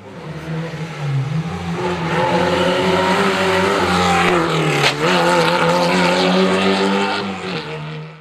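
Historic rally car engine running hard at high revs, building up over the first couple of seconds. About halfway the pitch dips briefly and there is a sharp crack, then the engine carries on loudly until the sound cuts off suddenly.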